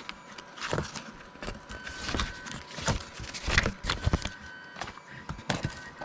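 Irregular clicks and knocks of plastic vacuum attachments and packaging being handled and set down while a box is unpacked.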